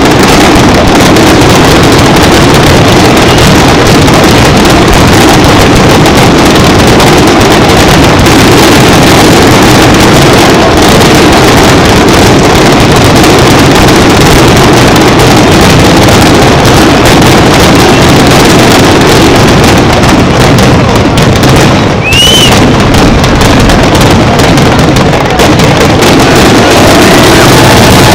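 Dense fireworks barrage, with shells bursting so thick and fast that the camera's microphone is overloaded into a continuous distorted roar. A brief high whistle rises and falls about two-thirds of the way through.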